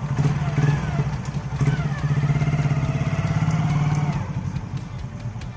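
Hero Glamour motorcycle's single-cylinder engine running as the bike pulls away. It rises in pitch about two seconds in, holds, then eases off after about four seconds.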